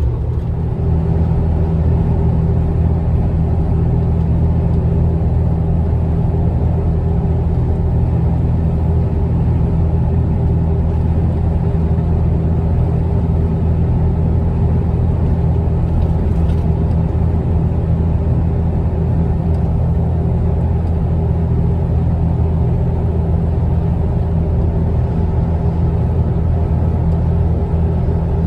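Steady low engine and road drone inside the cabin of a Jeep Wrangler JK while it is driving.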